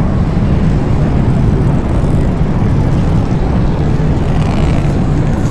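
Motorcycle engines running steadily: a loud, even low rumble.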